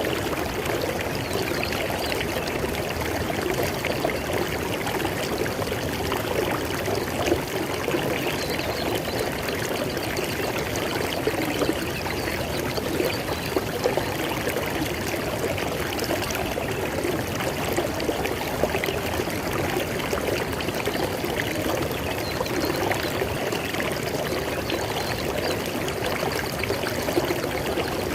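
River water flowing steadily, with an even rushing and small splashes here and there.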